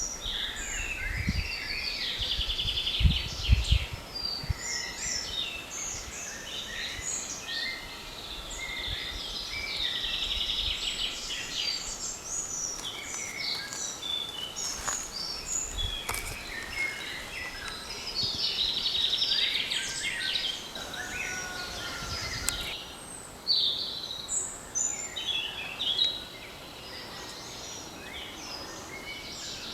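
Several songbirds singing at once in a dense spring chorus of overlapping trills, rapid repeated notes and chirps. A few low thuds come about three seconds in, and again once or twice later.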